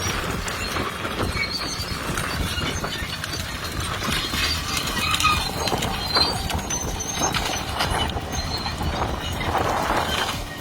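Crawler bulldozer at work, a steady dense clatter of knocks and cracks with no clear engine note.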